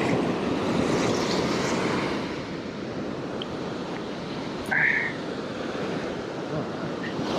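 Surf washing on a sandy beach with wind, a steady rushing noise; about five seconds in there is a brief squeak.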